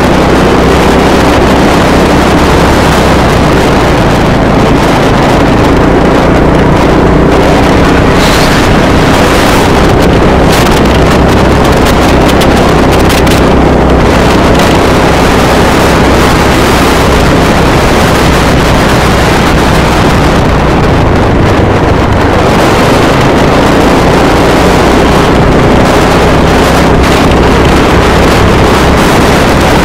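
Motorcycle engine running at a steady cruise under heavy wind noise on the microphone, the engine's hum drifting slightly in pitch.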